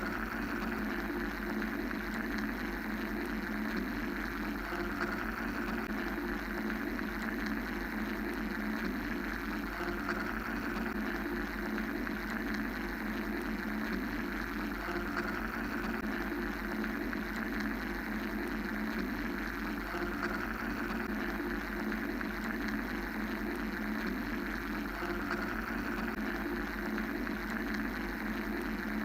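Steady mechanical white-noise drone: a continuous low hum and rushing noise, with a higher hiss that slowly swells and fades every several seconds.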